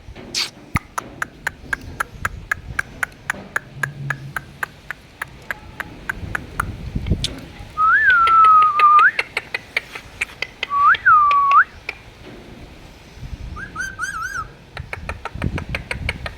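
Pet parrot whistling: two drawn-out whistles that rise, sag and swoop back up, then a short warbled trill, the whistles being the loudest sounds. A steady run of sharp clicks comes before them and starts again near the end.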